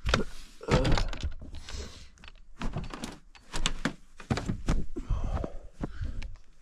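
A quick run of knocks, thunks and rustling of someone moving about and handling things inside a small camper, with the loudest thunks at the start and about a second in.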